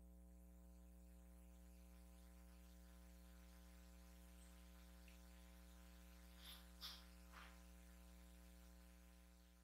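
Near silence with a steady low electrical hum, a few faint short clicks about six and a half to seven and a half seconds in, fading out near the end.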